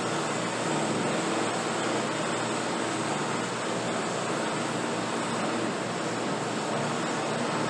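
Bench buffing wheel running steadily, a constant rushing noise with a faint low motor hum.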